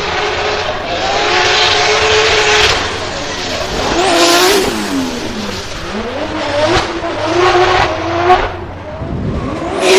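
Drift car's engine running hard at high revs, its pitch dropping and climbing again about midway, with the hiss of sliding tyres.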